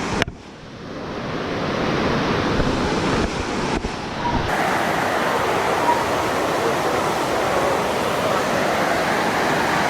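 Waterfall rushing: a steady, dense hiss of falling water that dips just after the start and builds back up over the next couple of seconds.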